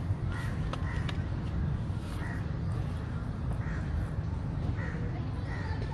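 A bird calling with short calls repeated about every second, over a steady low rumble.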